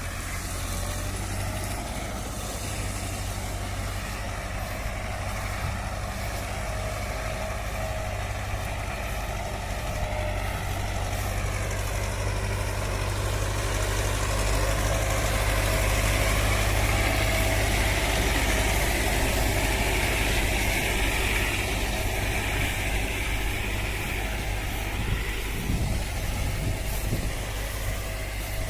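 A tractor engine running steadily while mowing. It grows louder for a stretch in the middle, then eases off again.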